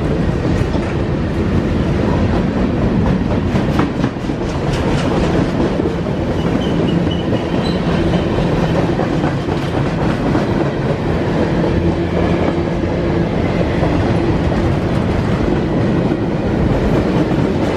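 Mixed freight train's cars rolling past close by: a steady rumble of steel wheels on rail, with a run of sharp clicks about four seconds in as wheels cross rail joints.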